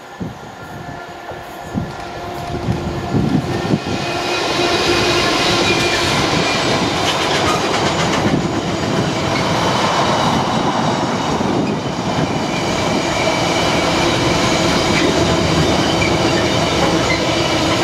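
A Class 66 diesel-electric freight locomotive grows louder over the first few seconds as it approaches and passes, with wheels clattering over the rail joints. It is followed by the steady rumble of loaded container flat wagons rolling by, with a thin ringing of wheel-on-rail squeal on top.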